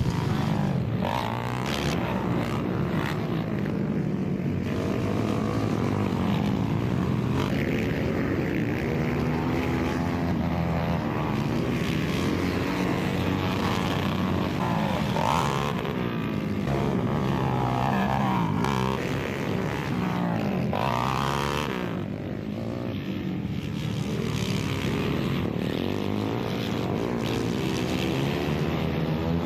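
Several racing motorcycles running around a dirt TT track, their engines rising and falling in pitch over and over as they accelerate, shut off and pass by.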